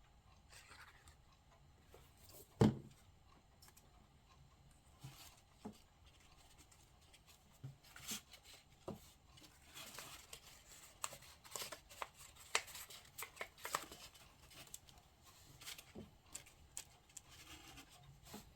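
Paper and card being handled on a table: light rustling, crinkling and small taps, thickest in the middle stretch, with one louder thump about three seconds in.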